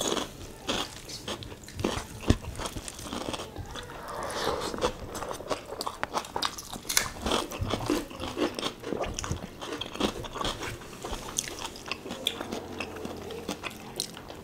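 Close-miked eating: two people chewing and biting mouthfuls of rice and fatty beef in thick spicy gravy, eaten by hand. It is a dense, irregular run of small clicks.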